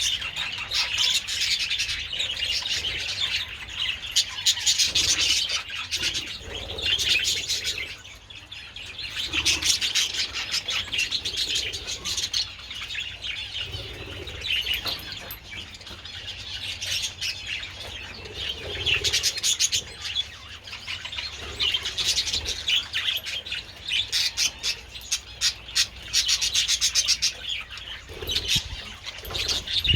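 A colony of budgerigars chattering and chirping, many birds at once, in a continuous warbling stream with no pauses.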